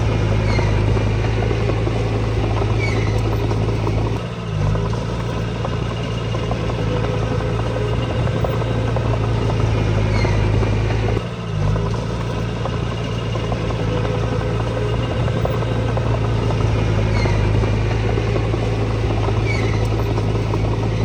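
Heavy diesel engine of earthmoving machinery running steadily, with a deep drone that dips briefly twice.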